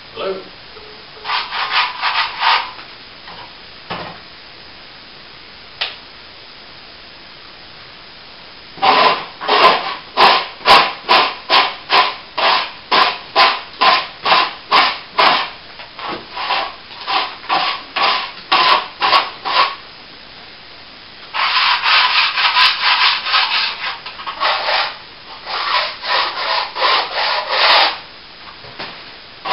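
Dried plaster patch being rubbed back by hand, in back-and-forth strokes about two a second, then faster and denser strokes in two spells near the end, with a brief run of strokes near the start.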